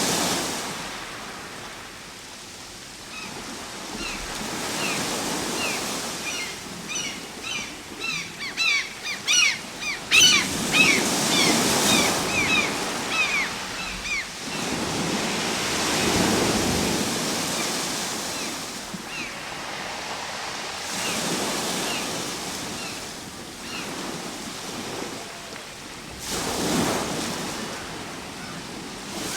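Ocean waves breaking and washing up the shore, the surf swelling and fading every few seconds. Through the middle, a flurry of short high chirps rides over the surf.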